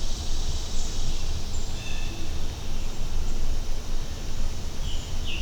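Woodland ambience: a steady, uneven low rumble with a few short, faint bird chirps about two seconds in.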